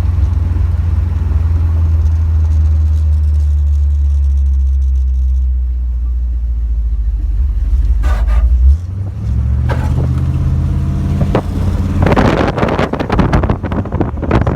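Car engine running steadily with a deep hum. Just before the middle it dips sharply, then its pitch climbs as it revs up, with gusty noise in the last few seconds.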